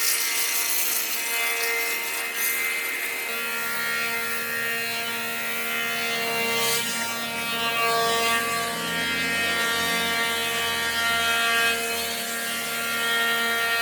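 Electric power tool running steadily on wood, a constant motor whine over a grinding hiss.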